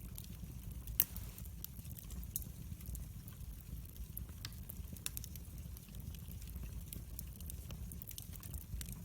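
Wood fire crackling in a fireplace: scattered sharp crackles and snaps over a low, steady rumble, with one louder pop about a second in.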